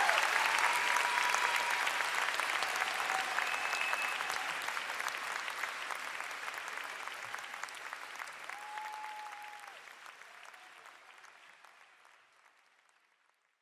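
Audience applauding at the end of a song, with a few held cheers over the clapping. The applause dies away gradually to near silence.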